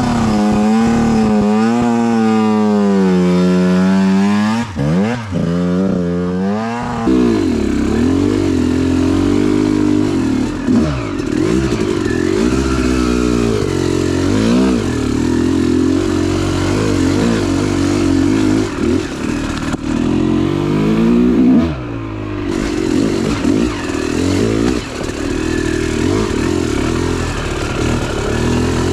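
Dirt bike engine under way, its pitch rising and falling over and over as the throttle opens and closes.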